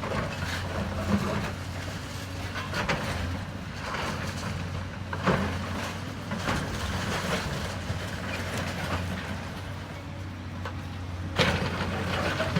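Diesel engine of heavy demolition machinery running steadily, with irregular crashes and clatters of falling building debris and rubble, the loudest near the end.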